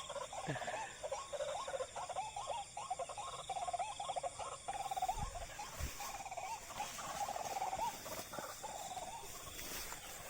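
White-breasted waterhen calls: a long run of short, quickly repeated croaking notes. Two low thumps come about five and six seconds in.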